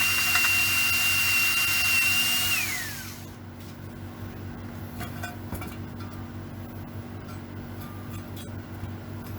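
Power tool running with a steady high whine. About three seconds in it is released, and its pitch falls as it spins down. Then come a few light clicks and taps over a low hum.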